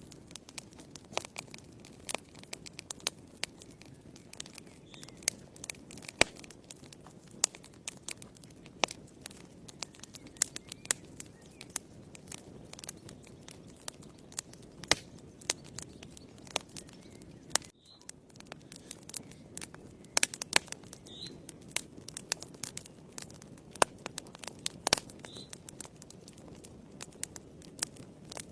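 Wood fire burning in a fireplace: frequent sharp crackles and pops over a low, steady rush of flame.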